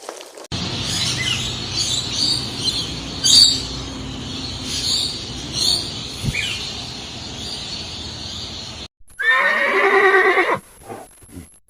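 A horse whinnying: one wavering, quavering call about 9 seconds in, with shorter snatches of it near the end. Before it there is a steady rumbling noise with a few short high chirps, which cuts off suddenly.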